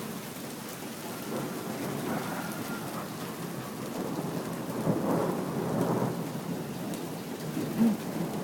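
Steady rain falling, with thunder rumbling under it. The thunder grows louder from about a second and a half in and is loudest around the middle before easing off.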